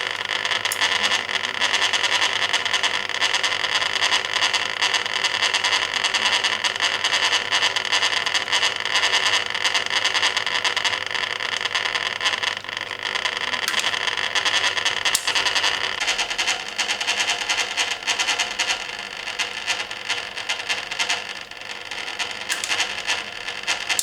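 Water and washload sloshing and splashing in the stainless steel drum of a 1980 Hoover Keymatic A3112 washing machine during the main wash, heard from inside the drum, with a constant churning wash and many small knocks.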